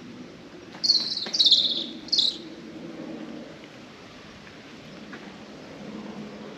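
A bird calling: three sharp, high-pitched calls in quick succession about a second in, the middle one the longest, over a faint low background noise.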